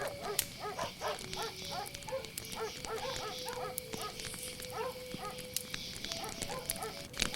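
Dogs barking over and over, several barks a second, with long drawn-out calls held underneath. A campfire crackles with sharp pops, and crickets chirp steadily.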